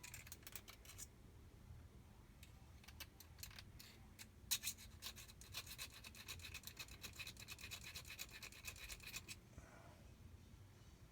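Hand file scraping on metal in quick back-and-forth strokes: a short run at the start, then a longer steady run that stops about two seconds before the end.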